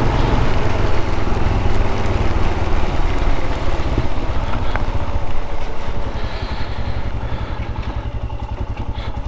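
Royal Enfield Scram 411's single-cylinder engine running on the move, under a haze of wind and rain noise. About six seconds in it gets quieter and its firing beat becomes more distinct as the bike eases off.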